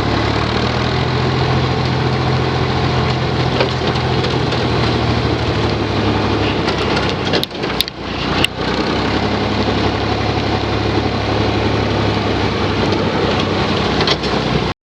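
Tractor engine running steadily with a low hum, broken about halfway through by a brief dip and a few sharp clicks.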